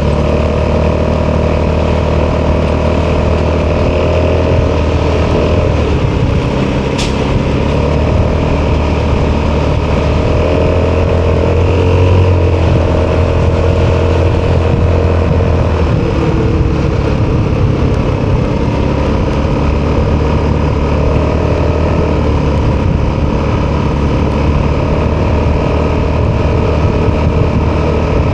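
Single-cylinder four-stroke engine of an Italjet Dragster 200 scooter running through an Akrapovic exhaust while riding at a fairly steady pace. The revs dip slightly and pick up again a few times.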